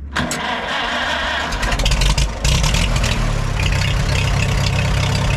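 Farmall H tractor's four-cylinder gasoline engine starting: it turns over briefly, catches about a second and a half in, and settles into a steady run.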